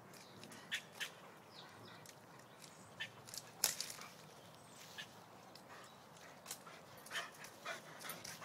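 German Shepherd dog making short, quiet, intermittent sounds, a dozen or so sharp little whines and yips at irregular intervals.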